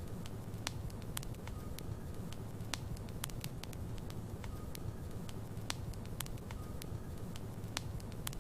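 Wood logs burning in a fireplace: a steady low rumble of the flames with sharp crackles and pops snapping at irregular moments, a couple a second.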